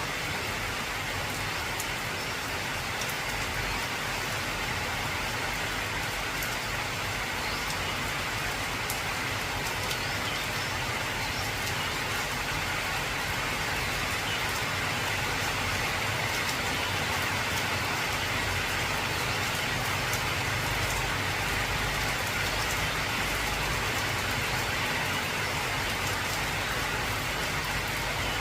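Heavy rain falling steadily on an old corrugated tin roof, with a low rumble underneath.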